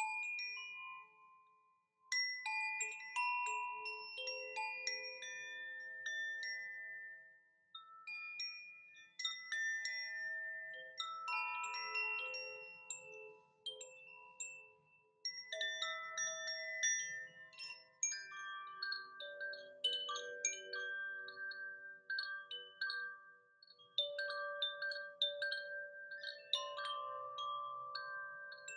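Chimes being played slowly, a loose cascade of struck metallic notes at several pitches that ring on and overlap, as in a sound bath.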